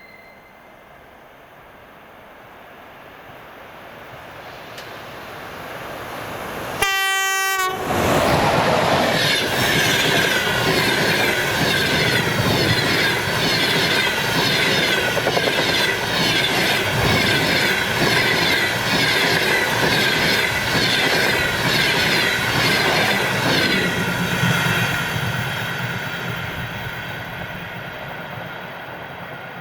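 EP20 electric locomotive and its passenger train approaching, growing louder, with one short horn blast about seven seconds in. The train then passes close at speed, its wheels clattering rhythmically over the rail joints. The sound fades as it goes away in the last few seconds.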